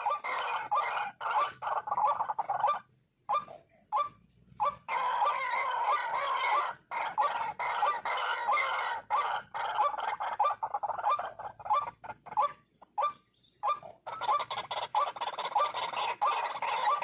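White-breasted waterhen calling: fast, repeated harsh croaking notes, in stretches that break off and start again several times.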